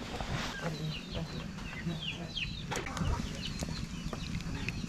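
Chickens calling, many short high chirps and clucks coming one after another.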